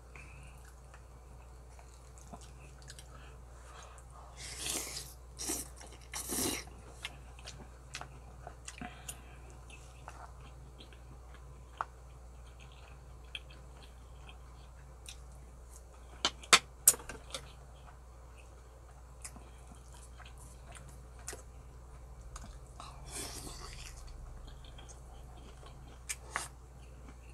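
A person chewing and eating spicy braised pork ribs with rice, making soft mouth noises in short bursts. A few sharp clicks about halfway through are the loudest sounds.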